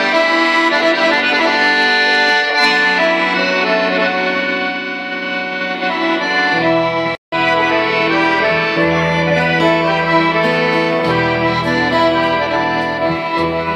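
An accordion plays the instrumental introduction of a song: held chords, with the bass notes changing every second or two. The sound cuts out completely for a split second about seven seconds in.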